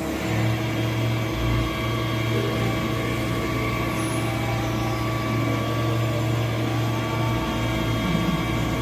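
Mazak CNC lathe running: a steady machine hum made of several constant tones, with no knocks or impacts.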